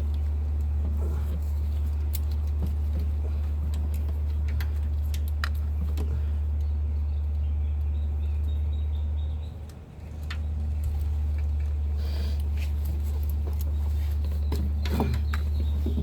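Steady low rumble with scattered light clicks and taps; the rumble drops away briefly about ten seconds in.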